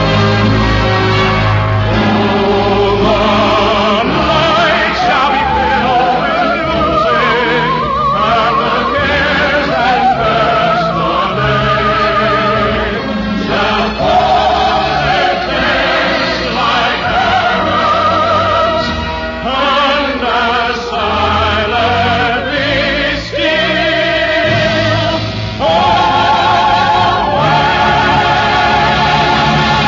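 Orchestra and choir performing a musical number, with singing voices held in vibrato over sustained orchestral chords, heard through the narrow, dull sound of a 1950s radio broadcast recording.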